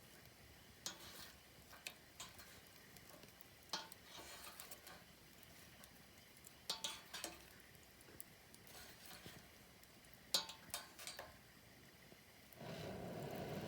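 Wood campfire crackling softly, with scattered pops and snaps, a few of them in quick clusters. About a second before the end a steady low rushing noise sets in.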